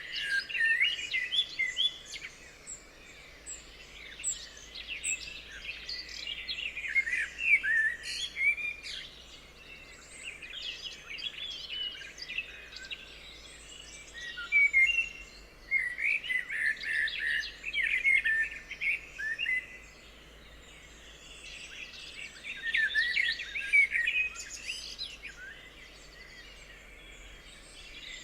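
Several songbirds chirping and warbling in bouts of quick, high phrases, with short lulls between them, over a faint steady background hiss.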